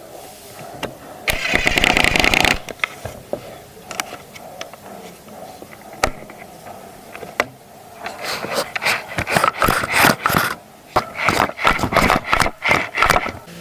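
Hand work on wooden parts: scattered clicks and knocks with a scraping burst early on, then a run of quick rasping strokes, about three a second, in the second half.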